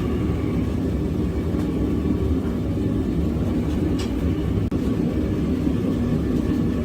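Blacksmith's forge running with a steady low rumble while the tacked work piece heats for a forge weld.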